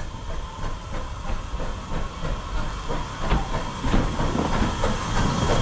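Steam train running into a station: a steady hiss of steam over the rhythmic clatter of wheels on the rail, the clatter growing stronger and closer together from about three seconds in.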